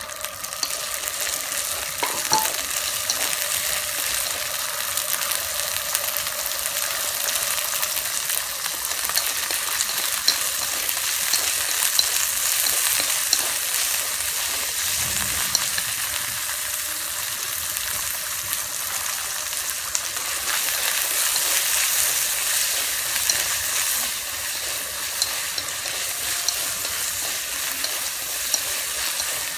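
Fresh sweet corn kernels sizzling and crackling steadily in hot oil in a wok, stirred with long wooden chopsticks.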